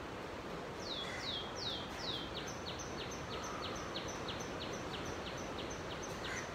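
A bird calling: about a second in, four falling, sweeping notes, then a quick run of short, high notes at about three a second. Under it is a steady background hiss.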